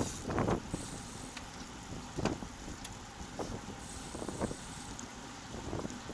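Wind rushing over a bike-mounted camera's microphone and road-bike tyres on the road while riding, a steady low rumble with a few brief knocks, likely from road bumps.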